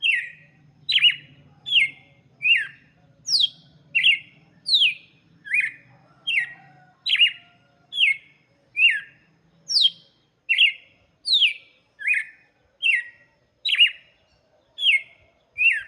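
Red-cowled cardinal singing: a long run of short, loud whistled notes, each sliding down in pitch, repeated at a little over one a second.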